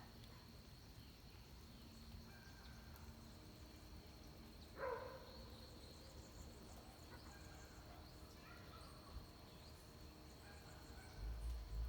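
Faint dawn countryside ambience: a steady high insect drone with scattered distant bird calls, and one short, louder call about five seconds in. A low rumble comes in near the end.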